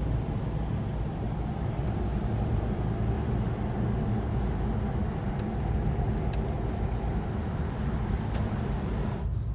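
Car driving along at a steady speed: a continuous low engine and road rumble, with a few faint ticks in the second half.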